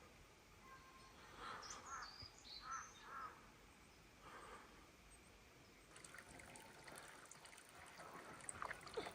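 Faint outdoor ambience: a few quiet bird calls in the first few seconds, then from about six seconds in a light trickle of water with small drips.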